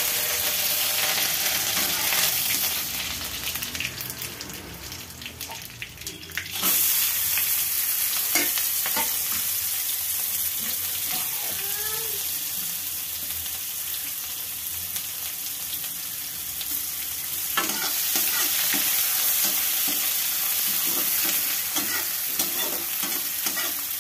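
Onion, dried red chillies and curry leaves sizzling in hot oil in a steel kadhai as a tempering (tadka), with a perforated steel spoon scraping and clicking against the pan as it stirs. The sizzle eases off for a few seconds, then surges again about seven seconds in.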